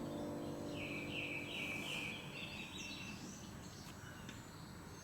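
A small wild songbird singing a quick phrase of about five repeated, evenly spaced notes, followed by a single higher note, faint over a steady background hiss.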